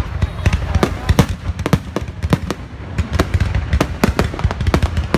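Fireworks going off: a dense, irregular run of sharp bangs, several a second, over a continuous low rumble.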